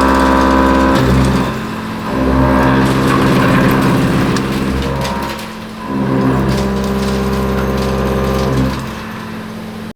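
Indexable-insert face mill cutting cold rolled steel in a CNC mill: a loud, steady, pitched cutting hum in three long stretches with brief dips between them, dropping to a quieter running sound near the end as the cutter comes out of the work. It is a heavy cut that leaves chips welded onto the inserts.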